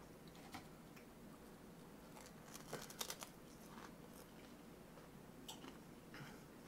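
Faint, crisp crunches of a puffed rice cake being bitten and chewed, with a quick run of them about three seconds in.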